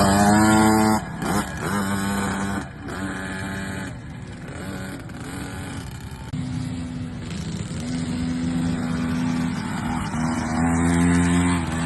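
KTM motocross bike engines revving up and down as the bikes ride the track. The engines are loudest in the first second, then fall back, and build again in the last couple of seconds.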